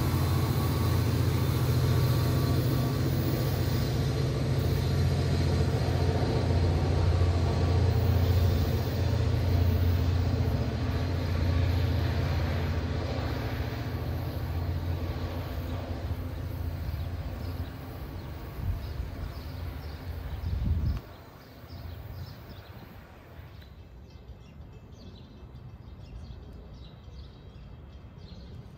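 An NJ Transit commuter train running past and drawing away, a low steady drone that slowly fades, then cuts off suddenly about twenty-one seconds in.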